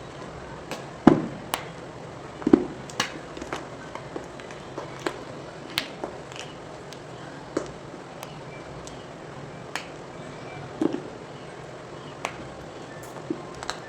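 Blocks of gym chalk being twisted and crushed, giving irregular sharp cracks and crunches with a few heavier crunches in among the lighter crackles.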